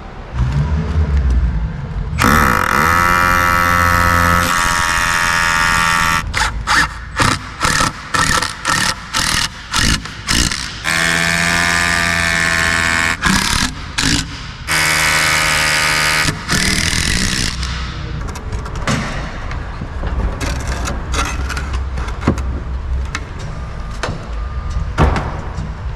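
A power tool whining in long runs and in a string of short trigger bursts, about two a second. Likely work on the door jamb and its fastenings.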